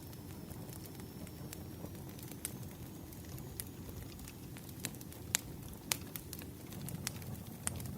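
Log fire burning with a steady low rumble and irregular sharp crackles and pops, a few louder pops in the second half.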